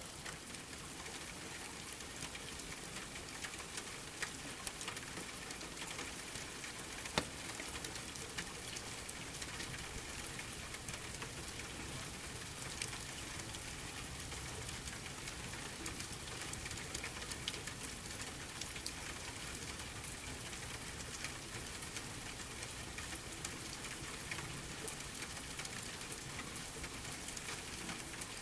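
Steady rain on a surface mixed with a crackling fireplace: an even rain hiss with scattered small crackles and two louder pops, one about seven seconds in and one near the end.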